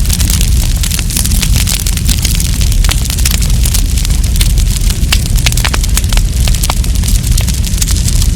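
Wood campfire crackling: a dense, irregular stream of sharp pops and snaps over a steady low rumble.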